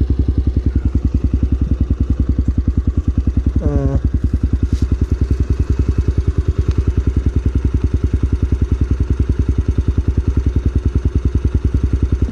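Motorcycle engine running at a steady low speed, with an even, rapid pulse and no revving.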